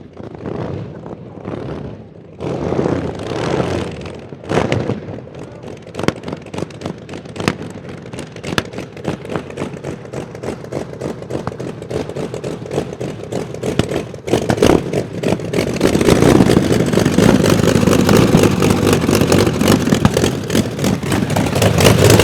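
The 27-litre V12 engine of the land speed record car Babs runs unevenly in separate bursts at first, then crackles with rapid, irregular pops. About fourteen seconds in it rises sharply to a much louder, fuller sound and keeps growing louder, as it is revved or pulls away.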